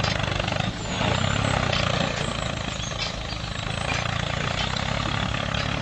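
Motor of a homemade mini tractor running steadily with a fast, low pulsing hum, dipping briefly about a second in.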